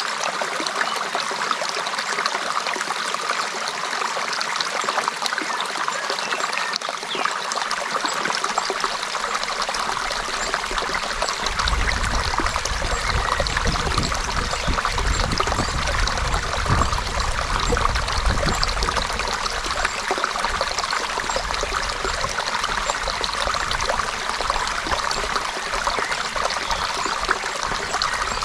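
Creek water flowing in a steady trickle and babble. A low rumble joins in about a third of the way through.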